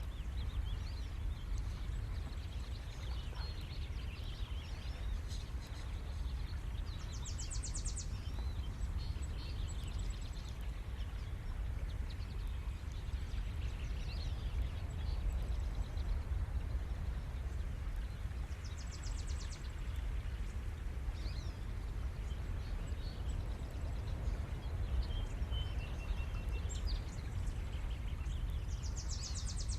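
Steady low rumble of ocean surf, with birds chirping and calling throughout, including three short rapid trills.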